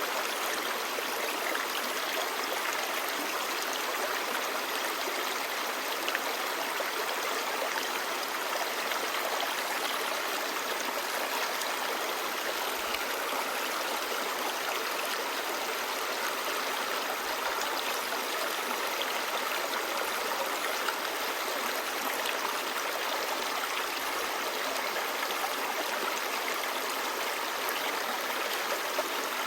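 Clear mountain stream running over rocks: a steady babble of water with small splashes and trickles on top.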